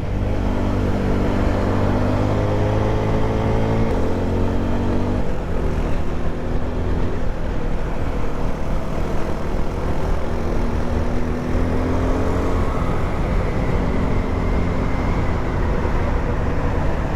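Motorcycle engine running steadily under way, with wind rumble on the microphone; the engine note changes about four to five seconds in.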